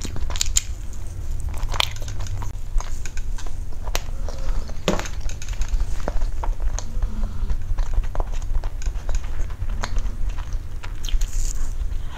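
Close-miked mouth sounds of eating soft cream cake: wet chewing and smacking, with scattered small clicks, over a steady low hum.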